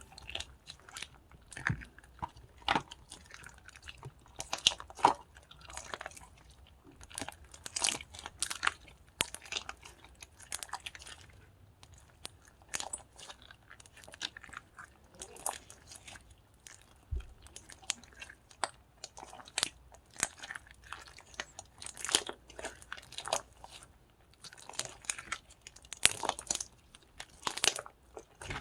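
Slime being squished and worked by hand, giving irregular crackles and pops throughout.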